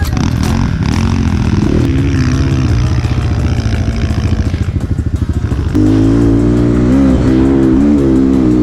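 Enduro motorcycle engine being ridden off-road, its revs rising and falling. About six seconds in it gets louder and holds a high, steady pitch under load.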